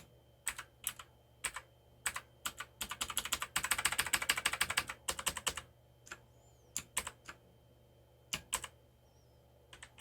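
Keys of an ABKO Hacker K600 RGB mechanical keyboard being pressed right after a switch replacement, as a check of the repaired keys. Scattered single clicks, then a rapid run of clicks for about three seconds in the middle, then scattered clicks again.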